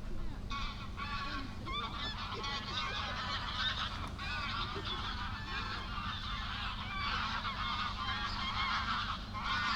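A flock of geese honking, many overlapping calls in a continuous clamour, over a steady low rumble.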